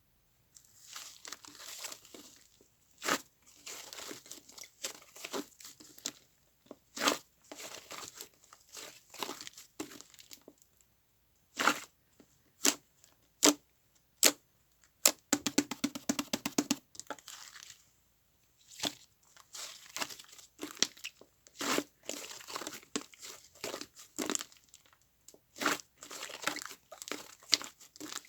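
Fluffy whipped-cream slime being squeezed, stretched and folded by hand, giving a continuous crackling with frequent sharp pops and a quick run of clicks about halfway through. The slime is still a little stiff.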